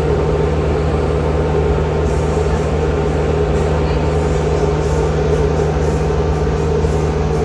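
A passenger ferry's engines running with a steady hum, one constant pitched tone over a low drone.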